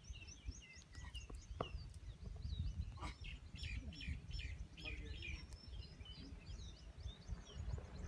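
Several small birds chirping and twittering in quick, overlapping calls, over a steady low rumble.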